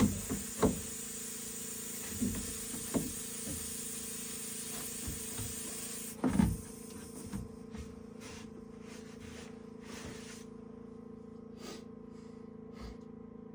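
A few short knocks and bumps, the loudest about six seconds in, over a steady low hum.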